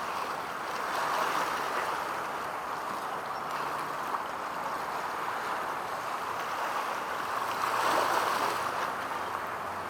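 Water washing and rushing steadily against the shore, swelling about a second in and again near the end, with a faint low hum underneath.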